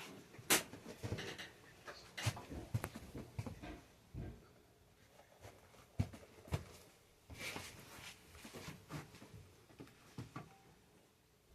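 Irregular knocks, clicks and rustling, with sharp knocks about half a second in and again about six seconds in.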